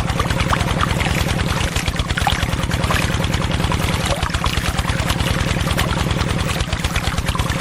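Small engine running steadily, with a rapid, even low chugging.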